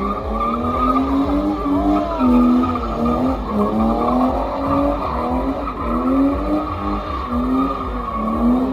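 A car drifting: its engine rises and dips in pitch about once a second as the throttle is worked, over a steady high-pitched tyre squeal.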